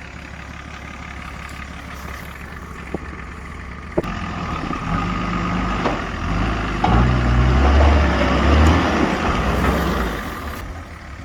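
Nissan Patrol 4WD engine idling low, then revving up under load as it climbs over creek rocks, with a sharp knock about four seconds in; the engine is loudest near the end before easing off.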